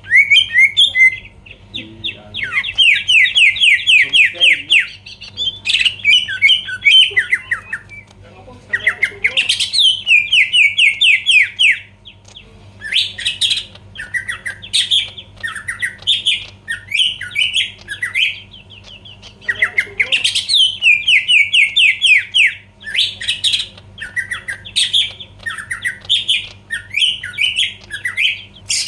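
Green leafbird (cucak ijo) singing loudly and continuously: runs of rapid, sweeping whistled notes, each phrase a second or two long, with short pauses between.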